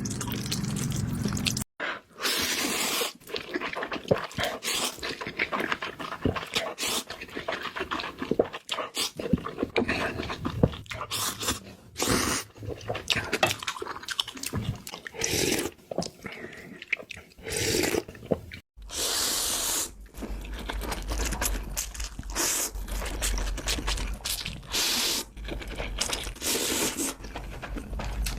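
Close-miked eating sounds: Buldak spicy instant noodles being slurped and chewed, with wet mouth noises and short clicks, and a few longer slurps.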